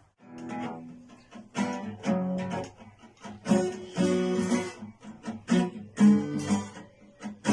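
Acoustic guitar strumming chords, each strum ringing briefly before the next, in an uneven rhythm.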